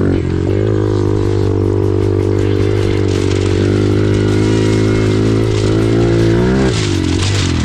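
An off-road vehicle's engine running loudly at a steady pitch, with the revs dipping and rising again near the end.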